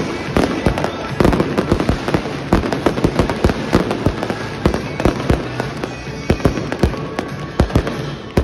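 A dense fireworks barrage: many bangs and crackles in quick succession with no let-up.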